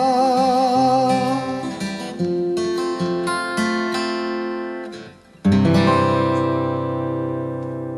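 Acoustic guitar closing a song: the singer's last note, held with vibrato, dies away in the first second or so, then the guitar picks a few single notes, pauses briefly, and ends on one strummed chord about five and a half seconds in that rings out and fades.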